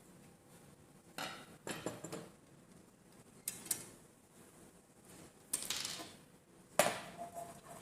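Metal ceiling-fan parts and hardware being handled during installation: about five separate bursts of clinking and rattling, the last and loudest near the end.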